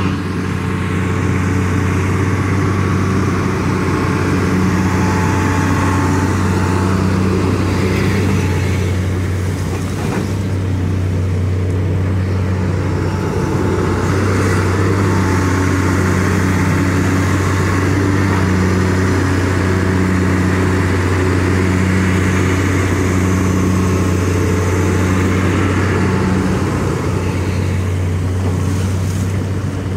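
Hitachi EX200-5 excavator's diesel engine running steadily under working load while digging, with a higher tone in the machine's note pulsing on and off about once a second.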